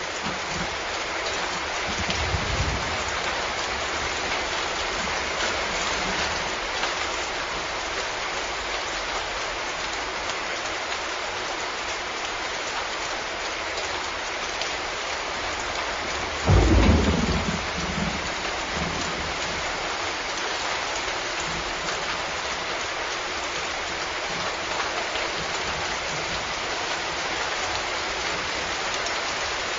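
Steady heavy rain falling, with a sudden loud thunderclap about halfway through that rumbles for a second or two.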